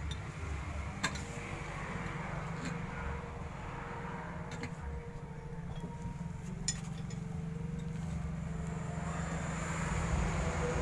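Steady low rumble of a running vehicle engine, with a few sharp clicks, growing louder near the end.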